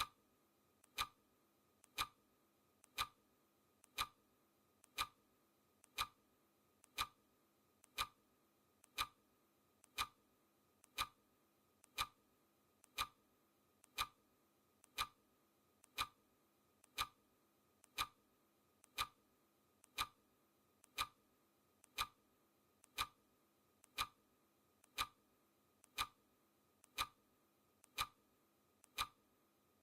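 Clock ticking steadily once a second, each tick with a faint click just before it: the per-second tick of a countdown timer.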